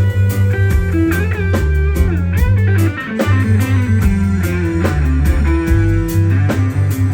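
Live rock band playing an instrumental passage: an electric guitar plays a melodic lead over bass guitar and a steady drum beat.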